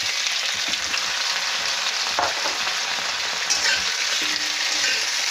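Cut potato pieces frying in hot oil in a kadhai, giving a steady sizzle.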